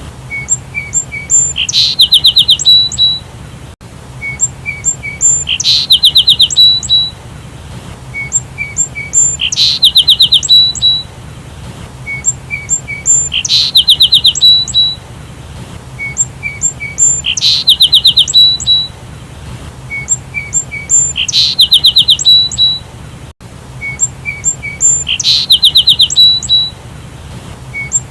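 Sparrow chirping: a few soft chirps, then a fast run of loud, rapid chirps, the same phrase repeating about every four seconds.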